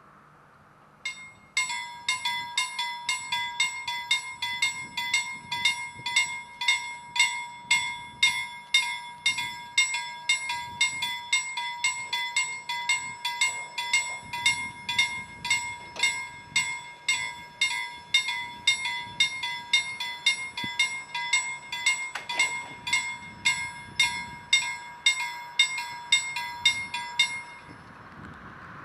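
A bell struck over and over at an even pace, about two to three strikes a second, each ringing at the same clear pitch. It starts about a second in and stops shortly before the end.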